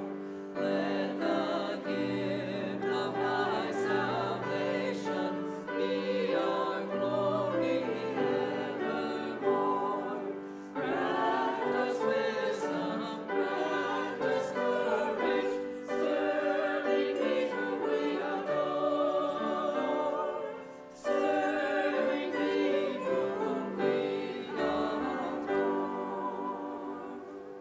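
Choir singing a sacred anthem in several parts, with sustained phrases that pause briefly twice before the music cuts off abruptly at the end.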